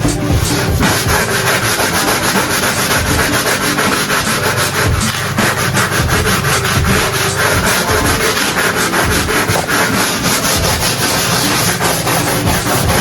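Rapid, continuous back-and-forth scrubbing of a hard surface, many strokes a second.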